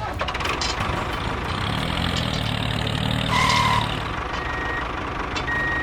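A truck engine running steadily, with a short electronic beep about three and a half seconds in.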